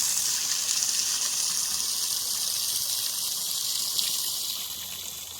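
Small cascade of water running down over a rock ledge and into crevices, a steady splashing hiss that eases off near the end.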